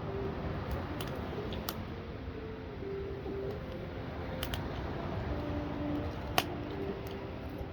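Wood fire crackling: a steady hiss with a few sharp pops, the loudest about six seconds in.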